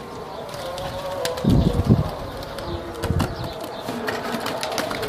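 Domestic pigeons cooing, louder about one and a half to two seconds in and again around three seconds, with scattered small clicks.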